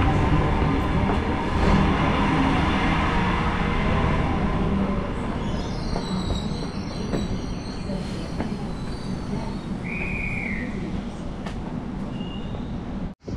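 Electric suburban train rumbling at the platform below, the sound slowly fading, with a brief high squeal about ten seconds in.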